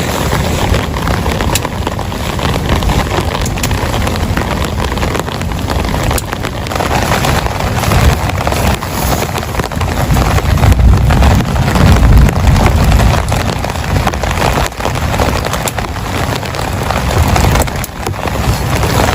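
Heavy rain falling steadily, with many single drops striking close by and a deep low rumble that builds in the middle and then eases off.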